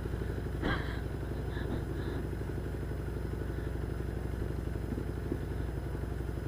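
1978 Honda Hawk 400's parallel-twin engine running at a steady, even speed, with one brief click less than a second in.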